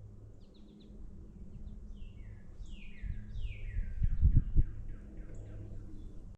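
A songbird singing: a few short chirps, then a run of down-slurred notes that step lower in pitch over a couple of seconds. Under it is a low rumble on the microphone, with a few loud thumps about four seconds in.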